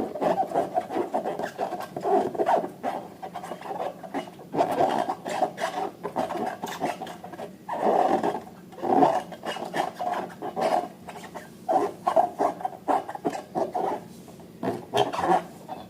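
Slime being worked and mixed: irregular squishing, rubbing and scraping strokes with occasional sharp clicks.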